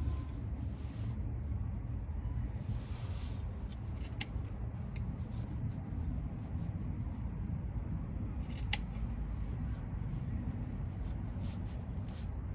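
Snips cutting rubber trim, giving a few sharp clicks, with more short clicks near the end. A steady low rumble runs underneath.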